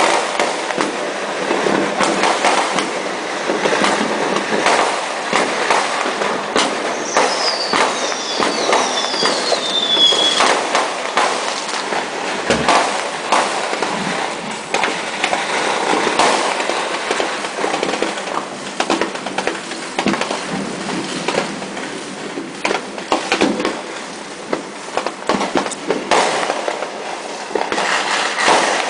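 Fireworks and firecrackers going off nonstop in many places: a dense crackle of bangs and pops. About seven to ten seconds in come several whistling fireworks, their whistles falling in pitch.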